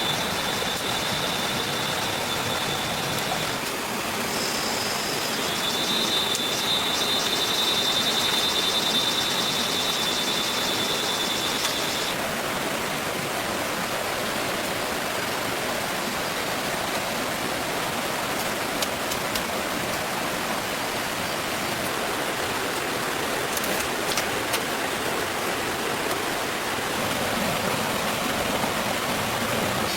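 Steady rushing noise of water, with a high, pulsing trill over it for the first twelve seconds or so.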